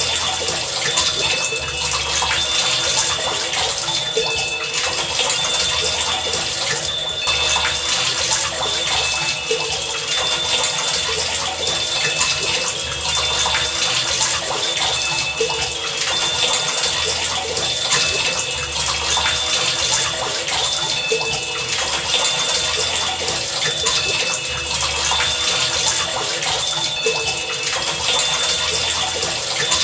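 Heavy rain falling in a steady rush. Faint short low pulses and brief high tones repeat every second or two beneath it.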